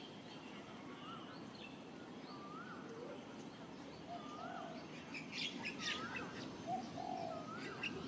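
Wild birds calling. One short rising-and-falling note repeats about every second and a half, with lower buzzy calls and bursts of higher chirps in the second half, over a steady background hiss.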